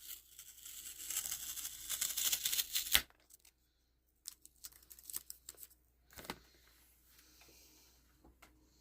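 Plastic crinkling and rustling for about three seconds, cut off by a sharp click, followed by a few light clicks and taps of plastic being handled.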